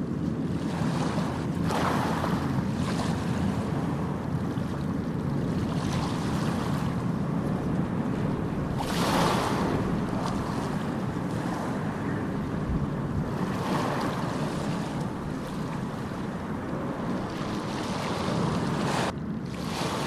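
Ocean surf: a steady low rumble of the sea, with waves washing in and hissing up every few seconds, the loudest about halfway through.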